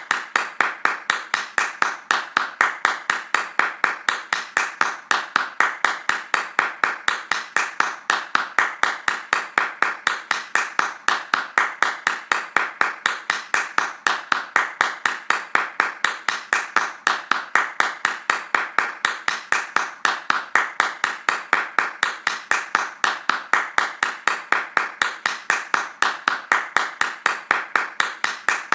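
Hand claps in a fast, steady, even rhythm of about four claps a second.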